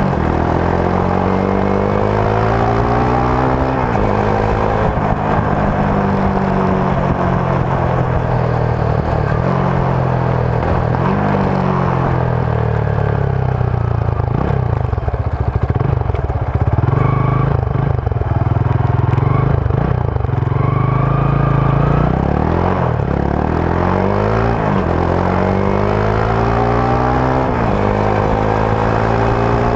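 Rusi Sigma 250 motorcycle running on its stock exhaust, heard close by from the rear wheel, revving up through the gears with sudden pitch drops at each shift, easing to a lower, steadier note in the middle, then pulling up through the gears again near the end.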